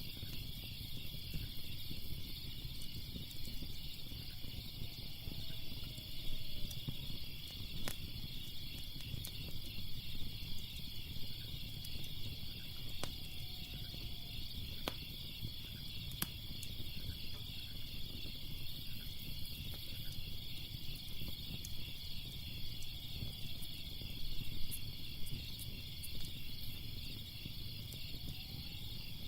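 Steady chorus of crickets chirping in a fast pulsing trill, over the low rumble of a fire with a few sharp crackles and pops.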